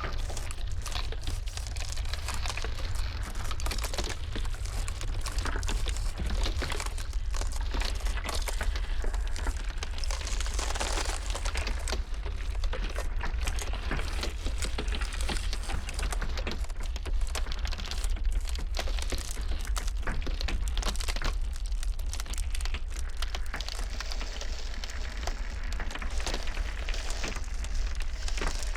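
Ice crackling and creaking in a dense, unbroken run of small cracks and pops, over a steady low rumble of blizzard wind.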